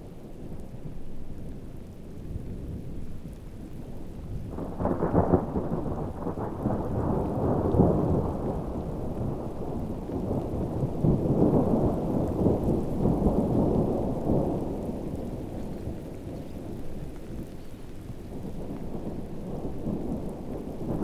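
Heavy rain falling, with a long rolling rumble of thunder that swells about four seconds in and dies away after about fifteen seconds.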